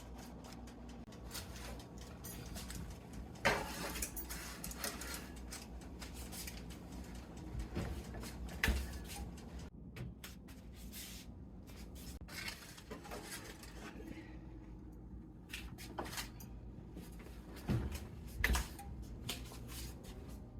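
Kitchen handling sounds: scattered knocks and clicks of cookware and utensils over a low steady hum, with a few louder knocks.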